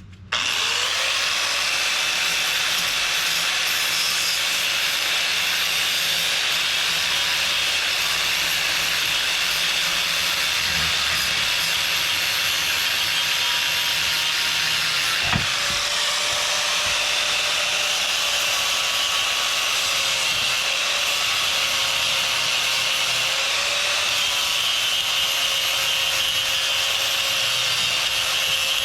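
Stick-welding arc struck just after the start, then crackling and hissing steadily as a bead is run with the welding rod. A single brief click about halfway through.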